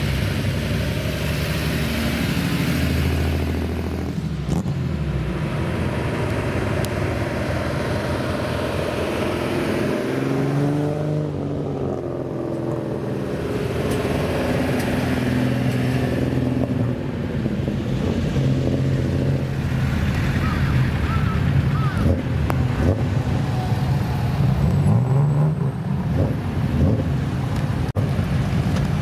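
Car engines running and revving as cars drive past, their pitch rising and falling a few times, most plainly about a third of the way in and again near the end.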